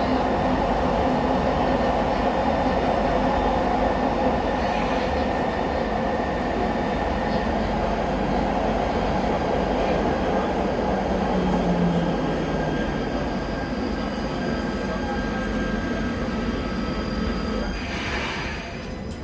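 KVB B80D light-rail car running, heard on board: the new traction converter sings several steady tones over the hum of the old traction motors and the running noise of the wheels on the rails. Near the end the sound eases off.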